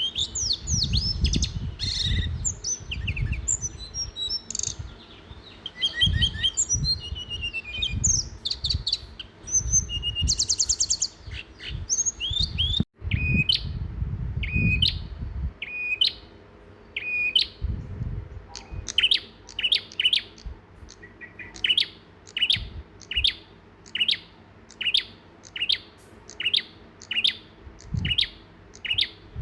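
Songbirds chirping: varied chirps and trills at first, with low rumbles underneath, then after a brief break a single bird repeating one short chirp about one and a half times a second.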